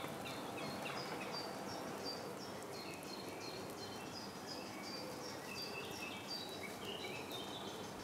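Faint outdoor ambience of small birds chirping: a long series of short, high, downward-sliding notes, about two or three a second, over a soft steady hiss, with a second, lower run of chirps joining in about two-thirds of the way through.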